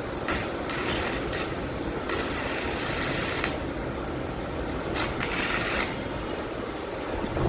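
Welding arc from a VEVOR MIG-130 welder crackling and hissing in four short stop-start runs, the longest about a second and a half.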